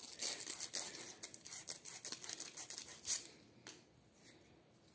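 Sandpaper rubbed in quick scratchy strokes on the shaft of an air conditioner's fan motor, smoothing it before a new bearing is fitted. The strokes die away after about three seconds.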